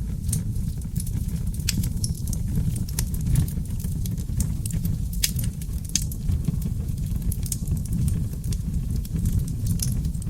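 Oak log fire in a fireplace crackling, with sharp pops scattered irregularly over a steady low rumble of the flames.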